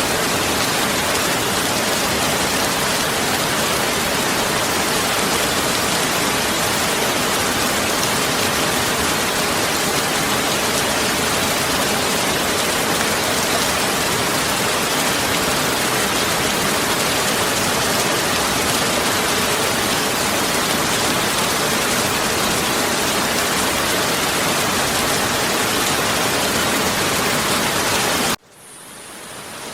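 Heavy rain pouring steadily in a dense, even hiss. Near the end it cuts out abruptly, then fades back in.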